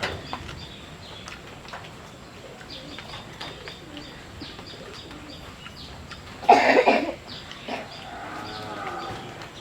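Small scattered clicks and crackles of pomelo being peeled and eaten, with one loud cough about six and a half seconds in.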